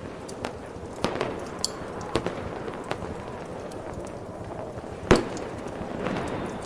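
Fireworks going off: a series of sharp cracks and bangs, the loudest about five seconds in, over a steady hiss of background ambience.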